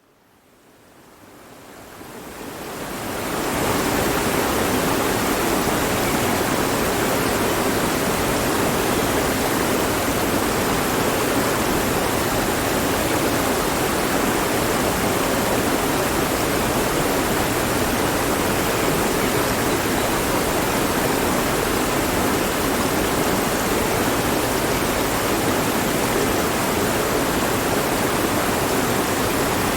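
Mountain stream rushing over rocks, a steady dense wash of flowing water that fades in over the first few seconds.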